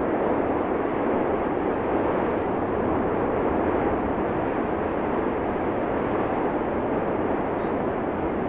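Steady, unbroken rushing roar of the Cumbre Vieja fissure eruption, like a jet engine held at one level.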